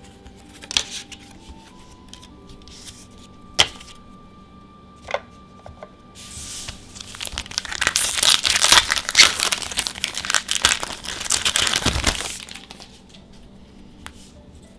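Magic: The Gathering booster pack's foil wrapper being torn open and crinkled: a few sharp clicks and crackles, then about six seconds of loud tearing and rustling before it stops. Faint background music with held tones underneath.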